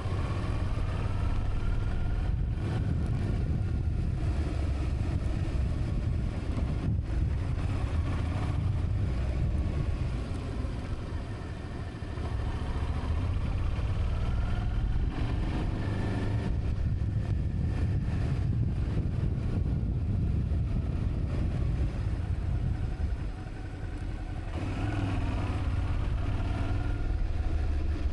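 Motorcycle engine running under way with wind noise, its pitch rising and falling. The sound eases off briefly about twelve seconds in and again about twenty-three seconds in.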